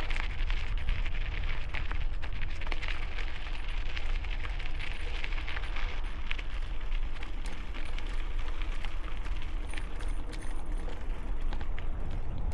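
Gusting wind buffeting a helmet-mounted camera microphone during a bicycle ride, a steady low rumble laced with frequent small crackles and clicks.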